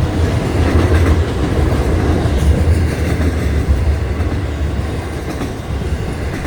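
Long Florida East Coast Railway freight train rolling past, its cars making a steady low rumble.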